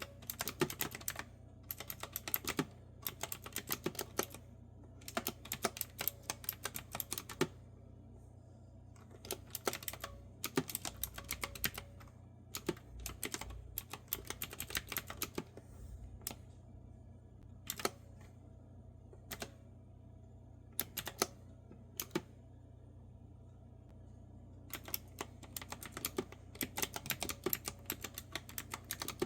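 Typing on a clicky retro-style keyboard with round keys: quick runs of sharp key clicks. Through the middle the typing thins to a few single keystrokes, and steady typing picks up again near the end.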